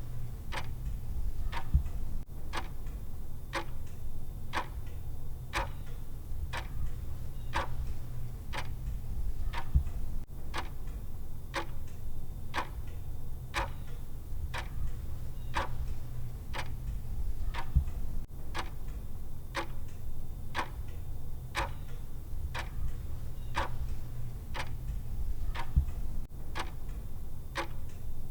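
Clock-style ticking of a countdown timer's tick sound, a steady, even tick a little faster than once a second, over a low steady hum.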